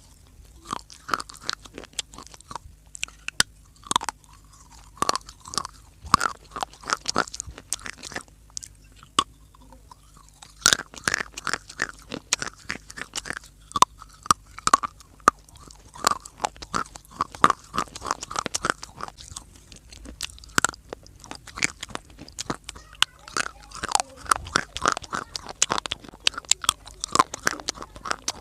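Close-miked biting and chewing of dry clay (mitti): a rapid, uneven run of sharp crunches and cracks, easing briefly about eight seconds in.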